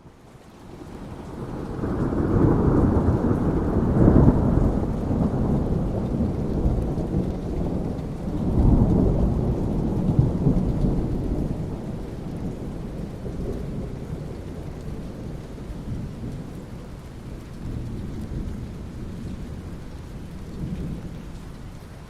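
Thunder rolling over steady rain. The low rumble swells over the first two seconds, peaks again about nine seconds in, then slowly dies away, leaving the rain.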